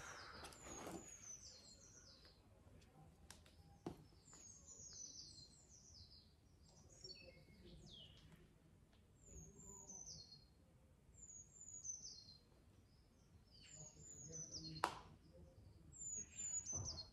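Faint bird chirping: short falling phrases of chirps recurring every few seconds, with light handling noises and a sharp click about fifteen seconds in.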